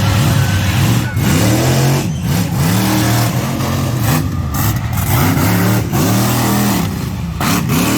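Monster truck engine revving over and over, its pitch rising and falling about once a second.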